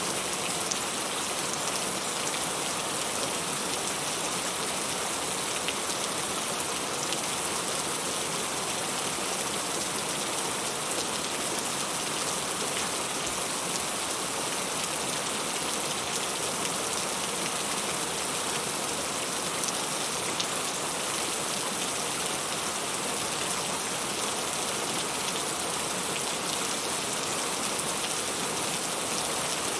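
Heavy rain falling steadily, a dense even hiss of drops on a surface with fine pattering throughout.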